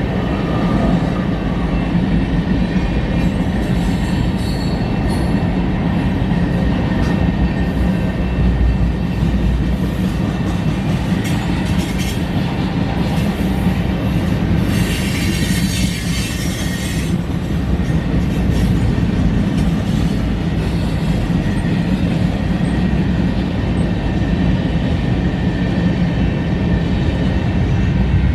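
Freight cars of a mixed freight train rolling past with a steady rumble of steel wheels on rail. About halfway through there is a high-pitched wheel screech lasting about two seconds.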